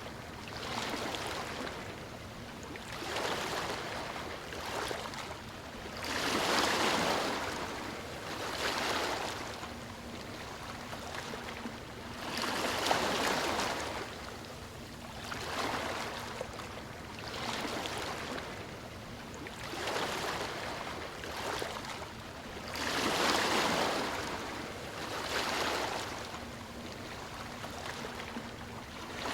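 Gentle ocean waves lapping on a shore, one wash after another every two to three seconds, some swells louder than others.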